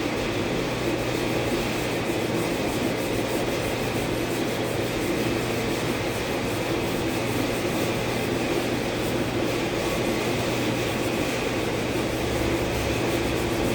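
A hand sanding block rubbing over a car's primed body panel during wet sanding, over a steady low machine hum.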